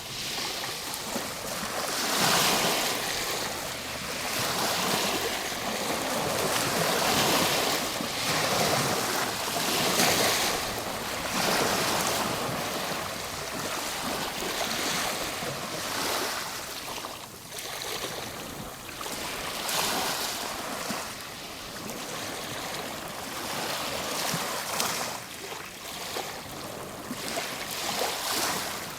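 Ocean waves breaking and washing on a shore, a continuous surf with swells every few seconds.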